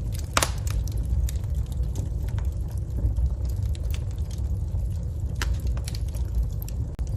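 Wood fire crackling in a fireplace: irregular sharp pops and snaps over a steady low rumble, with the loudest pop about half a second in.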